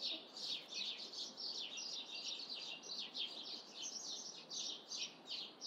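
Small birds chirping steadily, a dense chatter of short, quick, downward-sliding chirps, several each second.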